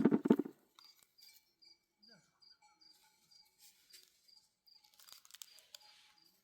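A cricket chirping steadily, a thin high chirp about two or three times a second. It follows a brief loud call in the first half-second, with faint rustling near the end.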